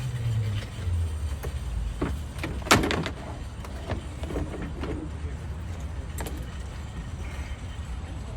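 Bicycles being handled and loaded into a truck: a few knocks and clunks, the loudest a little under three seconds in, over a steady low rumble.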